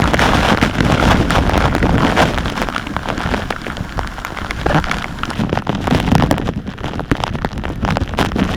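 Waterfall water rushing and splashing close to the microphone: a loud, dense rush with a low rumble and many sharp crackles of spray.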